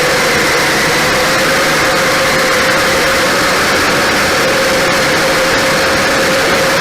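Kyosho Blizzard radio-controlled tracked snow vehicle running at a steady speed: a steady motor whine over an even rushing noise from the drive and tracks.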